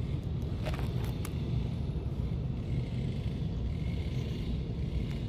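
Steady low rumble, wind on the microphone or distant traffic, with a few short clicks about a second in.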